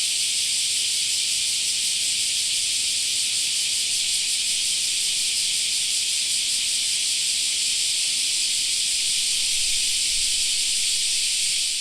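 A chorus of cicadas droning in summer: a steady, dense, high-pitched buzzing hiss with no breaks.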